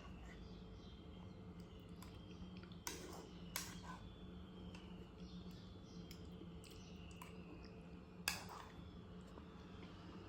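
Three sharp clicks over a steady low hum, with faint high chirping in the background.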